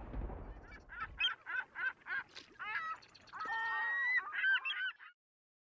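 A storm-like rumbling noise fades out over the first second. It is followed by a run of bird calls, short and repeated about three a second at first, then longer, bending calls. All sound cuts off abruptly about five seconds in.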